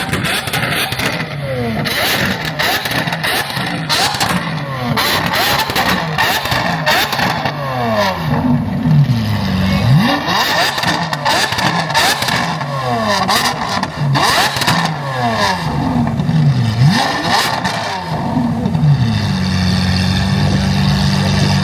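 Car engines revving over and over at a car meet, each rev rising and dropping back in pitch, settling into a steady held drone near the end.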